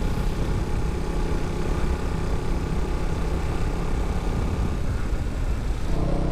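KTM Duke 200's single-cylinder engine running on the move, with wind rush over the mic. A steadier hum comes up near the end.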